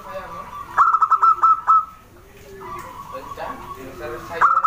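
Zebra dove (perkutut) singing: a quick run of staccato coos about a second in, a softer phrase after it, and another run starting near the end.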